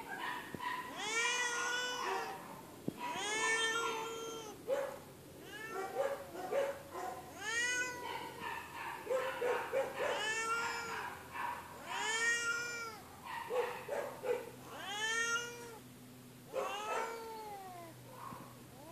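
Feral cat meowing loudly and repeatedly: about seven long, drawn-out meows, each rising and then falling in pitch, with shorter calls between them.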